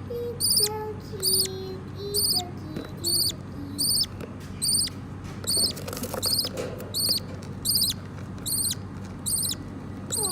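Parakeet giving a steady run of short, high, squeaky cheeps, about one every 0.8 seconds, with fainter lower calls underneath.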